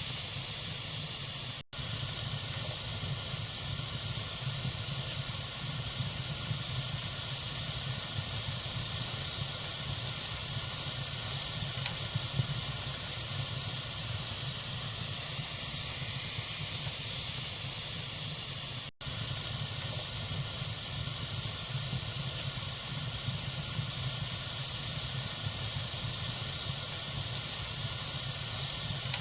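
Wood fire burning in a fireplace: a steady hiss with a few light crackles, the sound cutting out for an instant twice.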